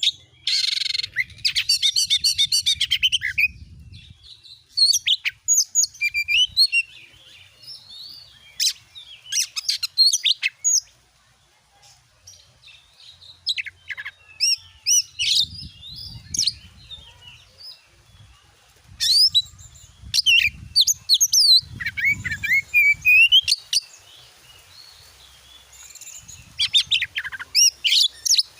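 Oriental magpie-robin singing: phrases of clear rising and falling whistles mixed with fast chattering trills, with short pauses between phrases.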